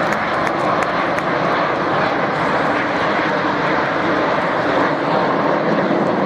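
Fixed-wing aircraft engine noise, a loud steady rush from an aircraft flying past in an air show display.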